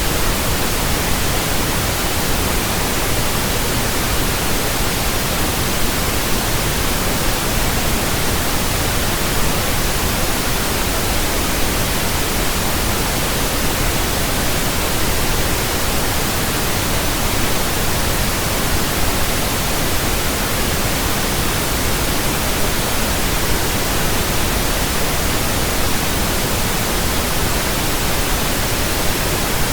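Pink noise test signal from a pink noise generator: a steady, even hiss that covers the whole range from deep to high pitches, unchanging throughout. It is played as a burn-in signal for breaking in new speakers, headphones and earphones.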